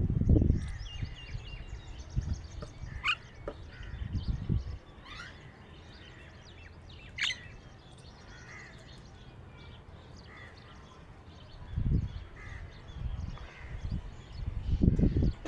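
Several birds chirping and calling, with short notes and quick falling calls throughout. Loud low rumbles come and go at the start, about four seconds in, around twelve seconds, and near the end.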